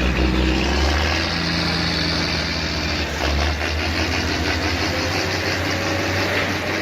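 A heavy machine's engine running steadily, with a sharp knock about three seconds in.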